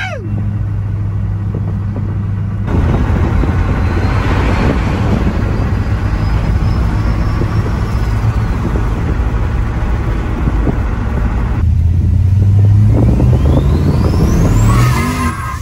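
Turbocharged LS V8 in a 1971 Chevrolet C30 truck pulling hard under throttle, the engine noise jumping up about three seconds in. Near the end the engine note climbs and a turbo whistle rises steeply in pitch, then the sound drops away sharply at the very end.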